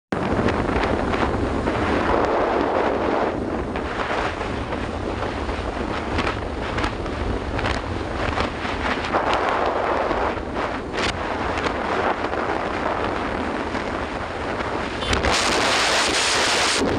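Wind buffeting the microphone of a moving motorcycle, over a steady low rumble of engine and road. About two seconds before the end the rush turns louder and hissier.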